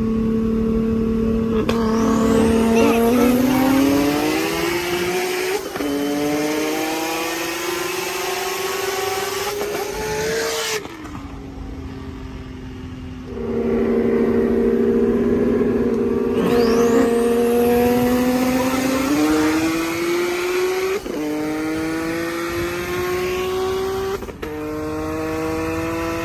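Nissan 370Z's VQ V6 engine at full throttle, climbing in pitch through the gears, with a sharp drop at each upshift. It lets off briefly about halfway through, then pulls hard again through two more shifts near the end.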